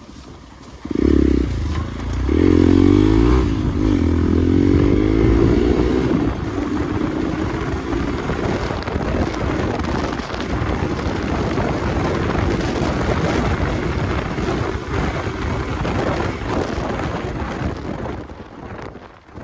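Hero XPulse single-cylinder dirt bike engine blipped hard about a second in, then revving up and down as it pulls away, and running on steadily while riding. It fades out near the end.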